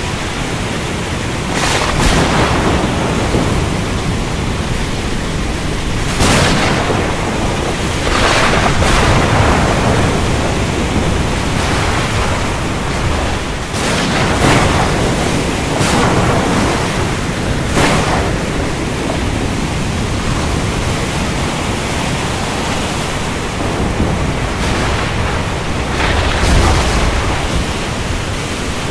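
Thunderstorm over the ocean: steady rain and sea noise, with repeated crashes and rumbles of thunder every few seconds, one of the deepest near the end.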